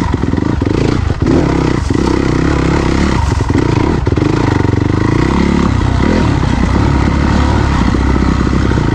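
Dirt bike engine running under throttle on a trail, the revs rising and falling, with some clatter and scraping from the bike over rough ground.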